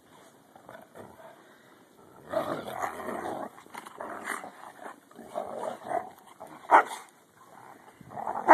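Dogs growling and barking in rough play, in several bursts, with a couple of short sharp barks near the end.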